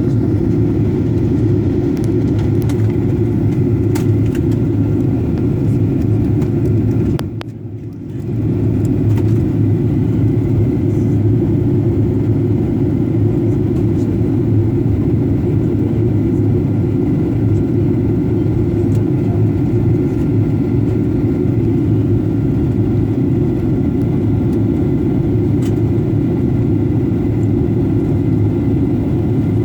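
Steady drone of an airliner cabin in flight: engine and airflow noise, heavy in the low end. It briefly drops away about seven seconds in, then comes back.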